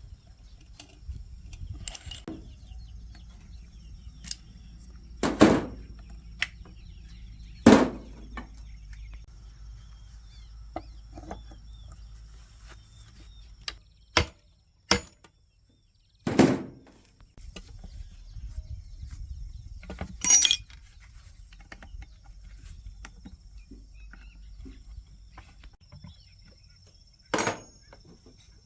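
Scattered knocks and clanks of hand tools on metal parts, about seven separate strikes spaced seconds apart, over a low steady hum.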